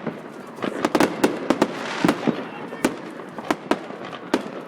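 Fireworks going off: a fast, irregular run of sharp bangs and crackles, thickest about a second in, with a short spell of hiss around two seconds.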